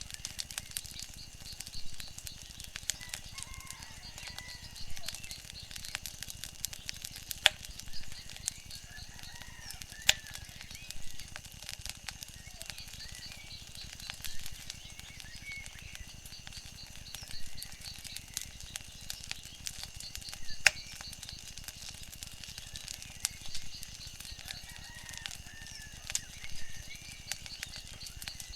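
Wood fire crackling, with sharp pops every second or two, the loudest a few seconds apart. Behind it runs a steady high-pitched background tone with faint chirps.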